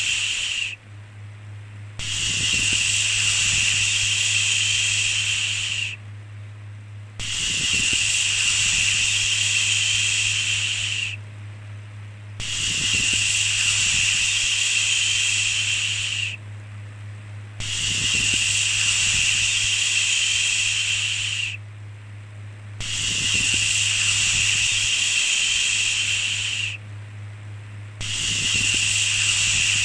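A long "shhh" shushing sound repeated over and over in a steady rhythm: each shush lasts about four seconds, then stops for a little over a second. A steady low hum runs underneath the whole time.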